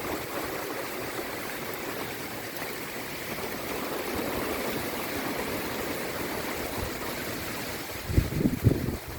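Heavy rain pouring down in a steady hiss, with wind gusts buffeting the microphone near the end.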